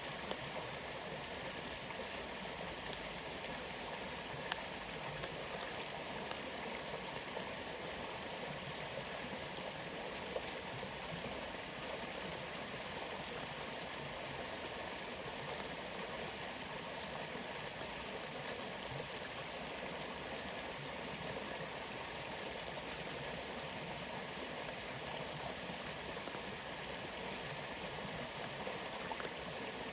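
Waterfall with rainforest rain: a steady rush of falling water, with a few sharper taps of drops here and there.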